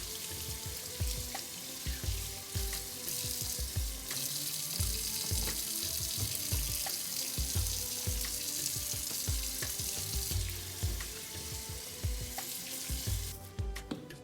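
Food sizzling in hot oil in a pan, a steady hiss that grows louder partway through and dies away near the end, over background music with a regular bass beat.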